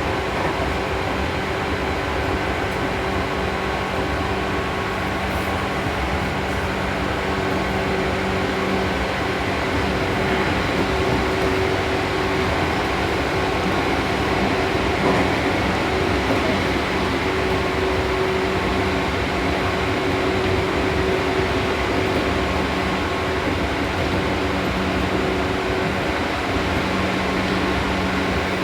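Seibu New 2000 series electric train running at a steady speed between stations, heard from inside the carriage: an even rumble of wheels and running gear with a few steady hums.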